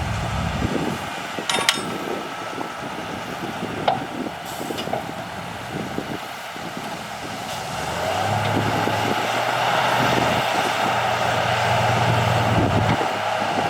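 Diesel engines of heavy earthmoving machinery working, with a few sharp clanks in the first few seconds. About eight seconds in, an engine comes up to a louder, steady run, then drops back near the end.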